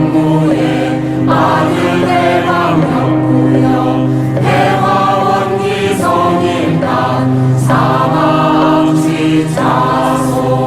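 Won Buddhist scripture chanting (dokgyeong) sung to a melody by a choir of voices. It runs on without a break, in held phrases that change about every one and a half seconds.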